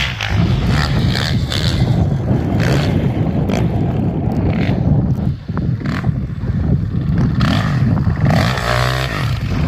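Dirt bike engine running and revving.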